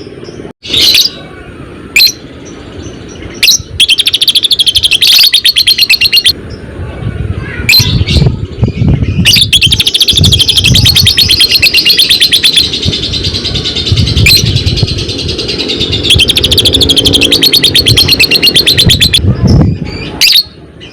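Fighter lovebird singing its long 'ngekek': a rapid, machine-like chattering trill held in long runs, one of about three seconds near the start and a much longer one from about 8 s to 19 s. Sharp single shrieks come between the runs, and low thumps run underneath.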